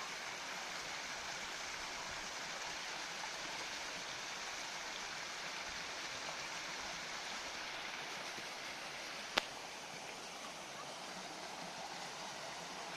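Steady rushing of running stream water, with one sharp click about nine seconds in.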